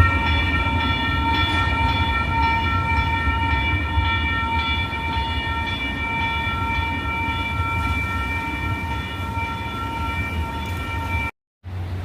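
Sacramento light rail train giving a steady, high-pitched sustained tone over a low rumble. The sound cuts off abruptly near the end.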